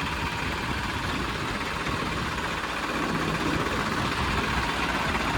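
Diesel tractor engines running steadily under load as two tractors pull against each other in a tug-of-war, growing slowly louder.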